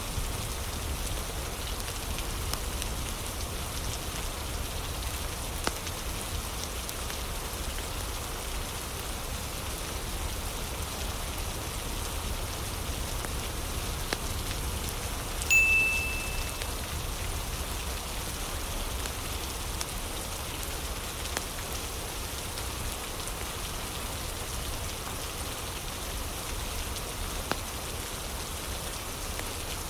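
Steady rain ambience with a few faint crackling ticks from a fire. About halfway through, a single short, high chime rings out and fades over about a second.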